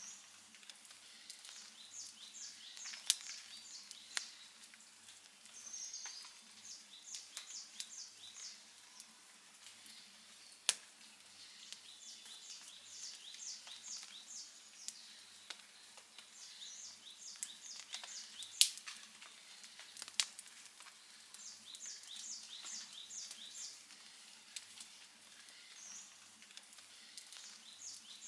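Outdoor wood campfire crackling, with scattered sharp pops, the loudest a little over halfway through. Short, high chirping trills from a bird or insect repeat every few seconds.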